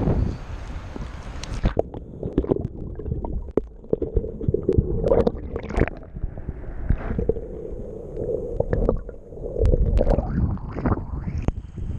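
Jet ski engine running steadily, with water gurgling and sloshing and scattered sharp splashes.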